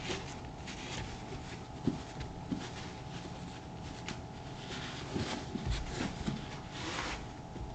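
Leather of a Thorogood moc toe boot being scrubbed with saddle soap: irregular soft rubbing swishes with a few light knocks, the strokes strongest in the last couple of seconds.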